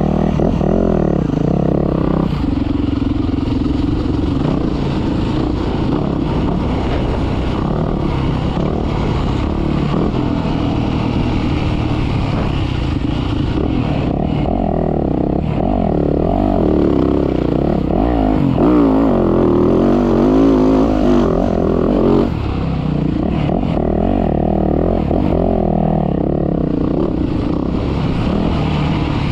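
Dirt bike engine revving up and down as it is ridden hard, its pitch rising and falling continually with the throttle and gear changes; it is loudest for a few seconds past the middle, then drops back.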